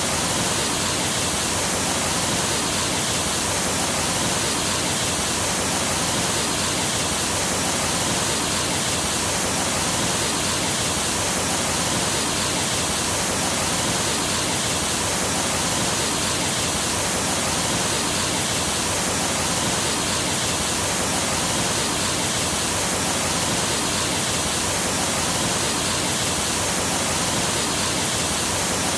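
Stream water rushing steadily over a waterfall: an even, unbroken hiss with no changes.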